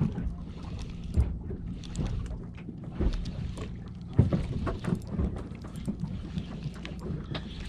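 Boat's motor idling, a steady low hum, with a few sharp knocks about a second, three seconds and four seconds in.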